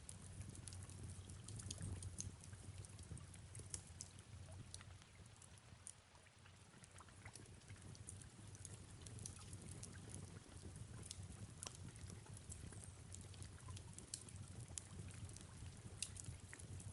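Faint fireplace and rain ambience: a wood fire crackling with scattered small pops over a soft steady patter of rain.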